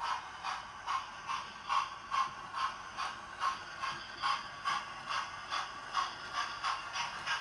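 Hornby Flying Scotsman model running on its TTS sound decoder, with steady rhythmic steam chuffing from the model's small speaker at a little over two beats a second.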